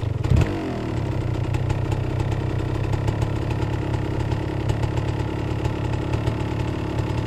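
Dirt bike engine idling steadily with an even pulsing beat, with one brief thump about half a second in.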